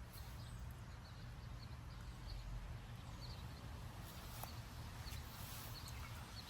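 Faint, short bird chirps repeating every half second or so, over a low steady background rumble.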